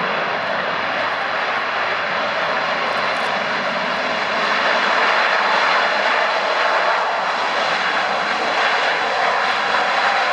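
Jet airliner's engines passing close by: a loud steady rush with a thin high whine running through it, swelling a little around the middle.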